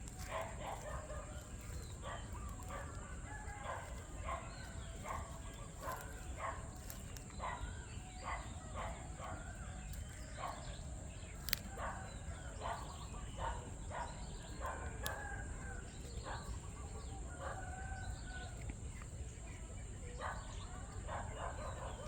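Birds calling: a long run of short, repeated calls over a steady low background rumble.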